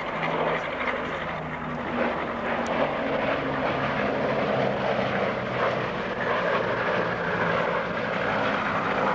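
Propeller aircraft engines running steadily, with a low drone that shifts slightly in pitch.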